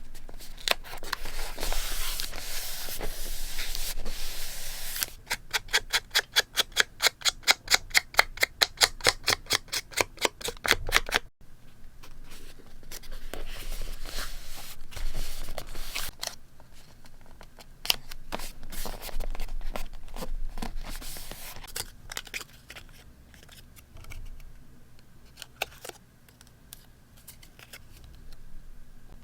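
Paper being handled and cut with scissors: rustling paper at first, then a run of quick, even snips, about four a second for several seconds, followed by softer paper rustling and rubbing that grows quieter near the end.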